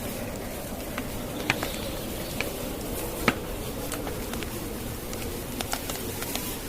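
Wood fire crackling, with sharp irregular pops, the loudest about three seconds in, over the steady rushing hiss of blizzard wind.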